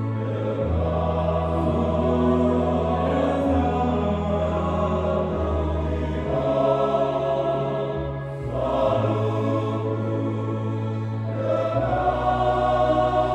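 Church choir singing a hymn in harmony over long held low notes that shift every few seconds, with a short pause between phrases about two-thirds of the way through.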